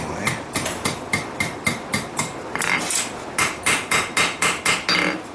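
Hand hammer striking hot steel on an anvil in quick, even blows, about three to four a second, each with a short metallic ring, as a straight-razor blank is forged to shape.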